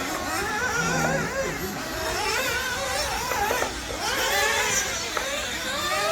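Several nitro RC buggy engines running at once, each high-pitched whine rising and falling as they rev and lift off around the track.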